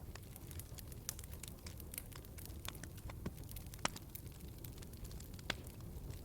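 Wood fire crackling in a fireplace: scattered sharp pops and snaps over a steady low rumble, with two louder pops about four and five and a half seconds in.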